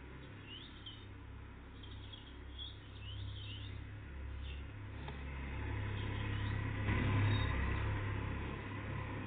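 Tits (great tits and blue tits) calling and singing in short, thin chirping notes, repeated every second or so. Beneath them a low rumble swells, loudest about seven seconds in, and fades again.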